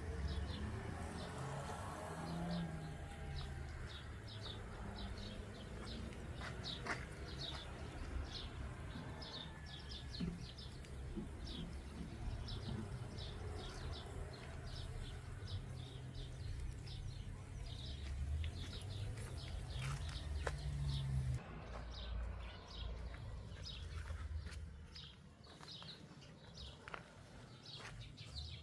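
Small birds chirping over and over, short high chirps throughout, above a steady low rumble.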